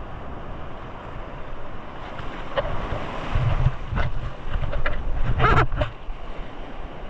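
Wind on the microphone over sea waves, with a few sudden louder sounds in the middle, the loudest about five and a half seconds in.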